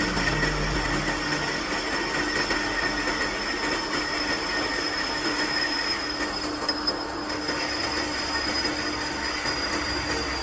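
Metal being turned on a lathe: a steady metallic squeal of the cutting tool on the workpiece, with a high whine that slowly falls in pitch.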